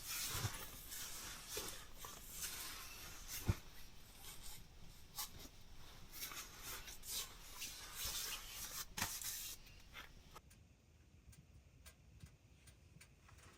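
Close rustling and scraping, as of gear being handled, with scattered light clicks and a sharp knock about three and a half seconds in; it grows much quieter about ten seconds in, leaving only sparse ticks.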